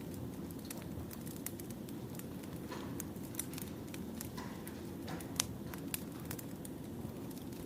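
Wood fire burning: a steady low rush under frequent, irregular sharp crackles and pops. The loudest pop comes about five and a half seconds in.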